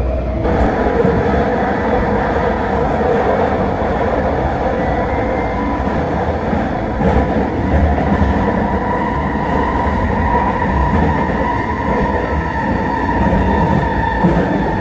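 Vancouver SkyTrain Expo Line train running at speed: a steady rail and wheel rumble with a whine from its linear induction motor drive that rises slightly in pitch and then holds.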